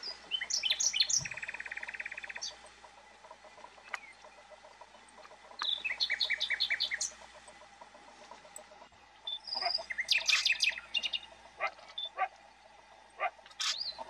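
Birdsong: phrases of quick, clear whistled notes. The first, about half a second in, ends in a fast trill lasting nearly two seconds, another comes about six seconds in, and a denser burst of song follows around ten seconds in.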